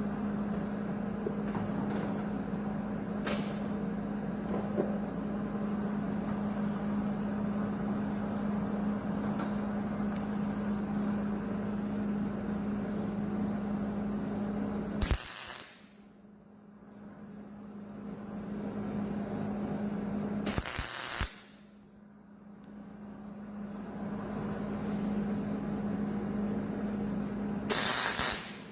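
Three short MIG tack welds from a Hobart wire-feed welder, each a crackling burst of under a second, the first about halfway in and the last near the end. A steady low hum sits under the quieter stretch before the first weld.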